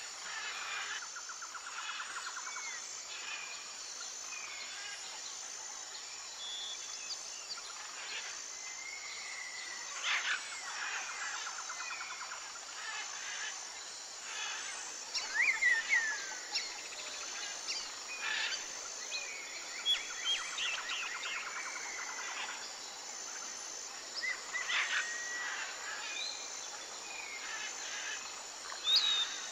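Birds chirping, whistling and trilling over a steady outdoor hiss, with the loudest calls about ten seconds in, again around fifteen seconds, and just before the end.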